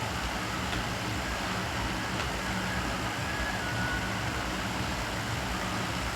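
Steady low hum and hiss of machine noise, like a fan or air conditioner, with a couple of faint clicks.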